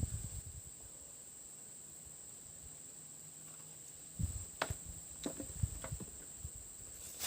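Insects shrilling in one steady high-pitched drone. Some rustling and a few knocks and clicks come about four to six seconds in.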